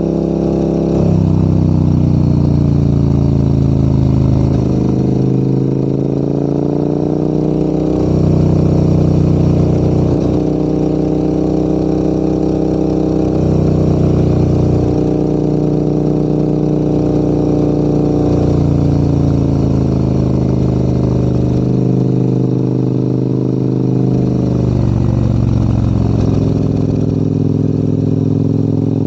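Adventure motorcycle engine running under load uphill. Its note steps down and back up several times with gear and throttle changes.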